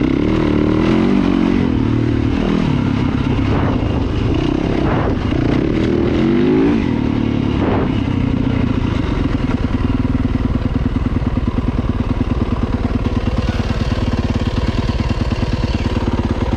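Dirt bike engine under way on a trail, revving up and down through the throttle for the first several seconds, then settling into a steady, even beat at a constant speed.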